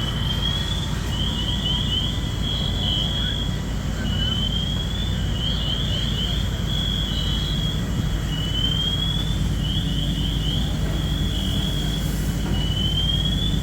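An electronic alarm cycling through its tones over and over, each cycle about two and a half seconds long: a rising sweep, a quick run of rising chirps, then a held tone. Underneath is a steady low rumble of running engines.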